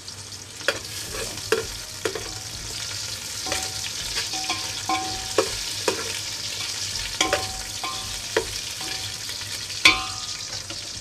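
Ginger slices and lemongrass sizzling in hot oil in an aluminium pot, with a metal ladle scraping and knocking against the pot as it stirs. The loudest knock comes near the end.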